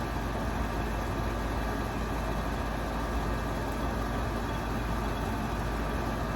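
A steady low rumble and hum with no breaks or changes.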